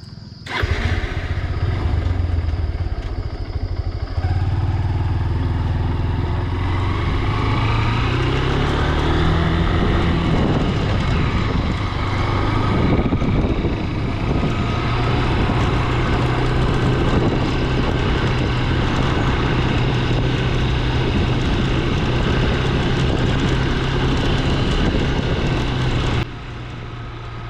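Motorcycle engine running under way, with wind rushing over the microphone. The engine note rises as the bike accelerates about eight seconds in, then holds steady, and the sound drops off suddenly about a second before the end.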